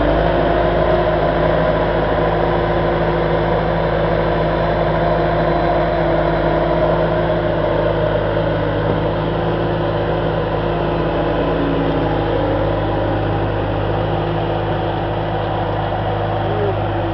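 A large engine idling steadily, a constant low drone with several steady tones and no change in pitch.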